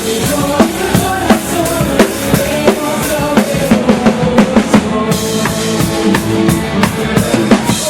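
A band playing loud music with a full drum kit, bass drum and snare hits under sustained pitched instruments, as at a sound check.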